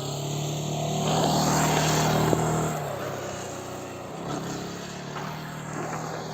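Motorcycle engine running at a steady pitch as the bike rides past, loudest about a second or two in, then fading, with a sharp click in the middle of the pass.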